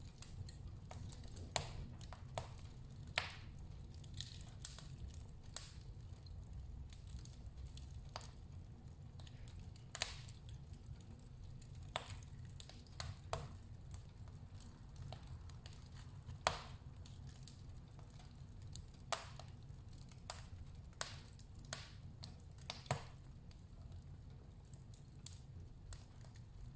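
Wood fire burning in a fireplace: irregular sharp crackles and pops, one or two a second, over a low steady rumble.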